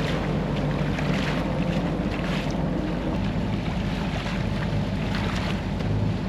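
Sailboat's inboard engine running steadily under way, a low hum with wind and water rushing over it.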